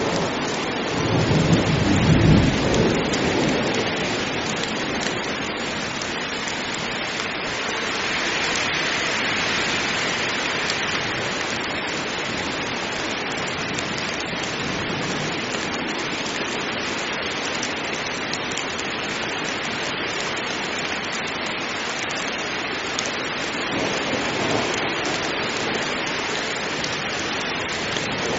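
Heavy rain falling steadily in a thunderstorm, with a low rumble of thunder in the first few seconds and a fainter rumble near the end.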